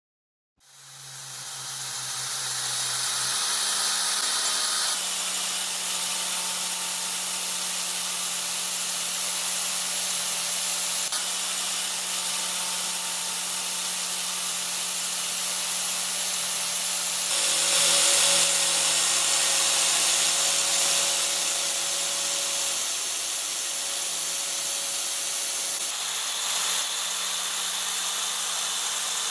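A power tool starting up about half a second in and running steadily on metal, a constant motor hum under a loud hiss, with a brief change in pitch partway through.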